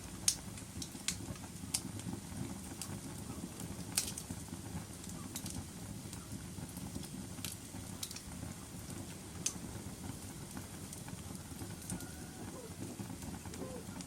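Wood fire burning in a fireplace: a steady low rush of flames with sharp, irregular crackles and pops every second or so, the loudest pops near the start and about four seconds in.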